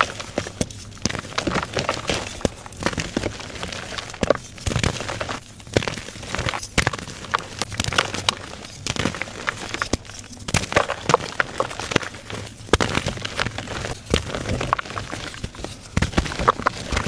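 Gym chalk blocks being crushed and crumbled, an irregular run of dry crunches and crackles with brief pauses.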